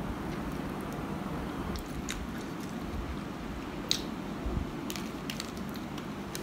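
Close-up chewing of a beef rendang Subway sandwich, with a few short, sharp wet mouth clicks, the loudest about four seconds in, over a steady low background hum.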